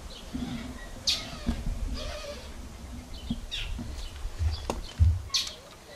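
Birds calling now and then with short high chirps, over a low rumble on the microphone.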